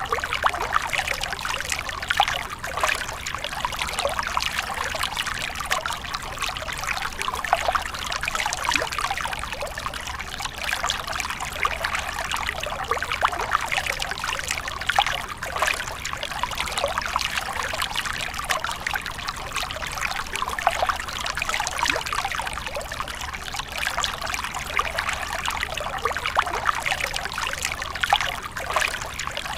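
Running water trickling steadily, a dense even wash of small splashes and gurgles with no break or change.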